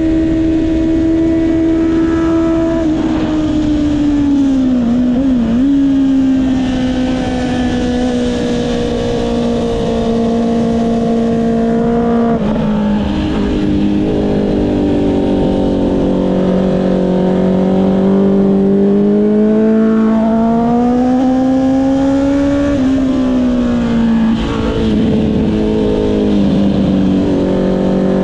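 Honda CB650R inline-four engine through an Akrapovic exhaust, heard from the rider's seat while riding through bends. The engine note holds steady at first, falls off about three seconds in, then rises and falls with the throttle, with sudden drops a little after 12 seconds and near 23 seconds, under steady wind noise.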